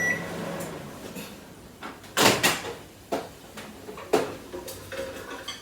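A microwave oven finishes: its running hum and beep stop just after the start. Then come a few sharp clunks, the loudest about two seconds in, as the door is unlatched and opened and the bowl is handled.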